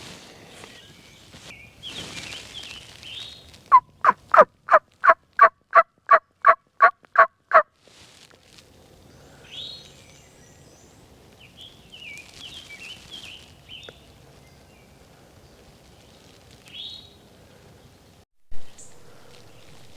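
A hunter's turkey call run as a hen yelp series: about a dozen loud, evenly spaced yelps over some four seconds, beginning about four seconds in. Faint songbird chirps come and go around it, and a short thump sounds near the end.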